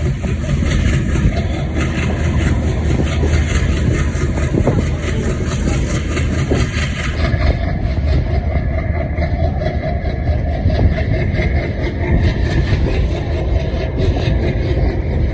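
ALCO diesel engine of a WDP3A locomotive running steadily with a deep rumble; about seven seconds in its sound shifts as a mid-pitched drone comes in.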